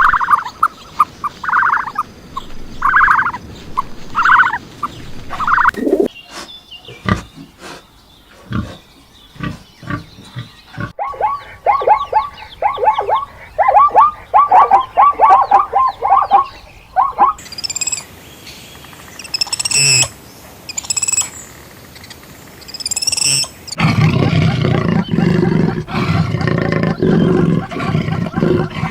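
A run of different animal calls, one after another: a short call repeated evenly at first, then a quick run of rapid chirps, then high sharp cries, and near the end a long, loud, rough call that is lower in pitch.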